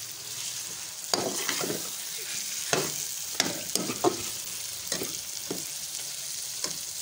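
Chicken pieces sizzling as they fry in oil and spice masala in a metal pot. A metal spoon scrapes and clinks against the pot in irregular strokes from about a second in, as the chicken is stirred.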